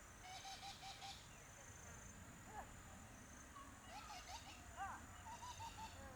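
Faint bird calls: a quick run of short repeated notes near the start and again near the end, with a few single notes that rise and fall in pitch between them, over a thin steady high tone.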